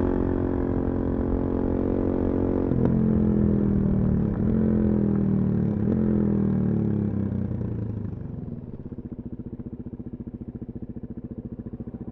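Suzuki DR-Z400SM single-cylinder engine through a full Yoshimura exhaust, slowing down with its pitch stepping lower three times. Past the middle it settles to a quieter, evenly pulsing idle.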